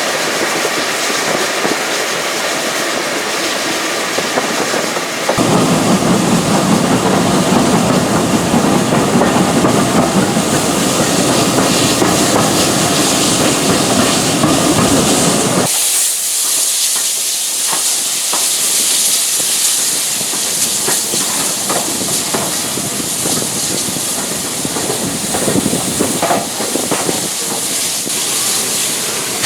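Steam train hissing steam, in three stretches that change suddenly about five and sixteen seconds in. The middle stretch is louder and fuller, and the last is a strong high hiss with scattered clicks.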